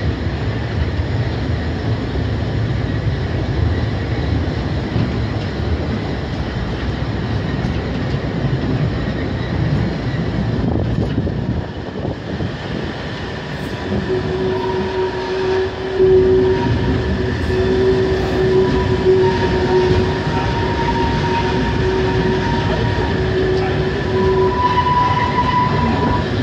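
A train of old coaches hauled by a diesel shunting locomotive rolling slowly on the rails, with a steady low rumble of wheels and running gear. About halfway through, a steady high squeal from the wheels sets in and lasts about ten seconds as the train comes in slowly.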